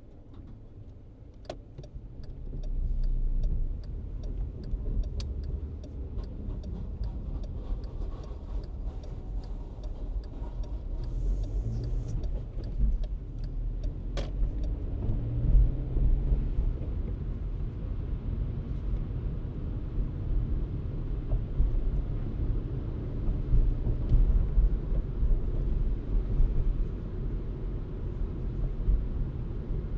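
A car driving, with a steady low rumble of engine and tyres that grows louder a couple of seconds in. For the first several seconds a regular ticking is heard, about two ticks a second, followed by a brief hiss and a single click.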